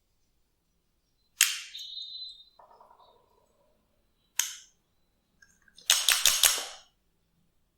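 Glossy slime being pressed and squeezed, popping trapped air. There is a sharp pop about a second and a half in, another about four and a half seconds in, then a quick run of several pops near six seconds.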